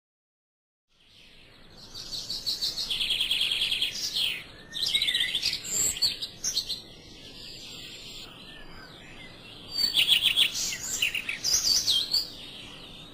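Songbirds singing: rapid high trills and chirps starting about a second in, in two spells with a quieter patch between.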